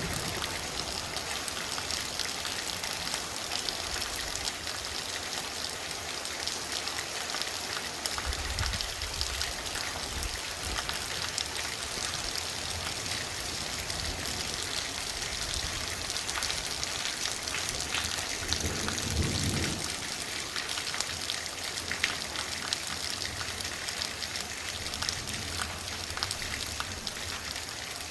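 Torrential rain pouring steadily, a dense patter of drops hitting surfaces, with a brief low rumble about two-thirds of the way through.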